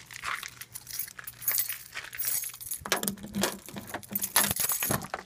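Keys jangling in a hand, a run of irregular metallic clinks and rattles.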